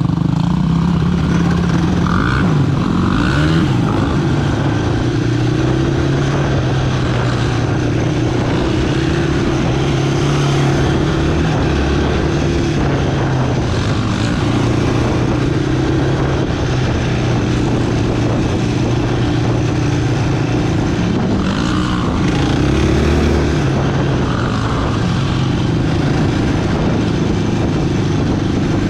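Sport quad engine running under way, its revs rising and falling again and again as the rider works the throttle.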